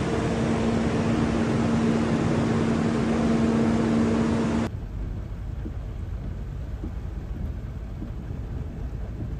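Steady rushing water noise with a low, even hum under it; about halfway through it cuts off abruptly to a quieter low rumble.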